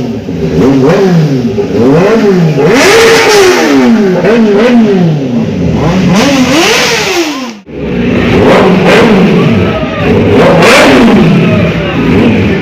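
Superbike engines revved hard over and over, the pitch climbing and falling about once a second. The sound breaks off for a moment a little past halfway, then the revving picks up again.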